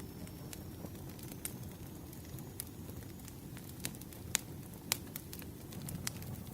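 Campfire burning with a low steady rumble and irregular sharp crackles and pops of the burning wood, two of them louder about four and a half and five seconds in.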